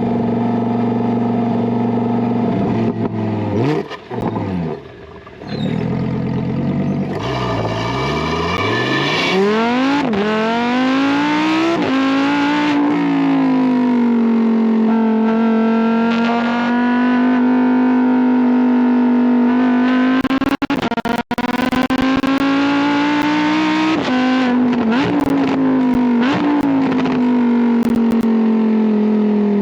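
Lamborghini Huracán Tecnica's naturally aspirated 5.2-litre V10 running loud, its revs sweeping down and up several times and then held steady for long stretches, with two brief sharp cuts about two-thirds of the way through.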